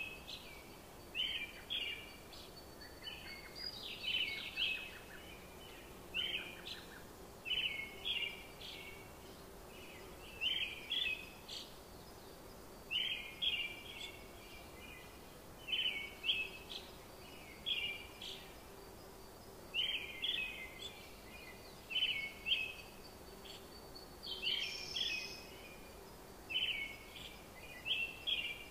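Birds chirping in short, repeated phrases about once a second, over a faint steady hum.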